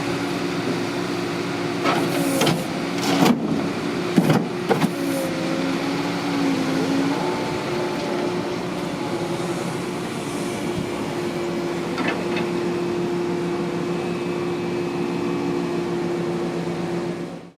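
Road-rail excavator working: the engine runs steadily under a whining hydraulic pump, whose pitch wavers for a few seconds in the first half. Several sharp metallic knocks come from about two to five seconds in, and one more comes near twelve seconds.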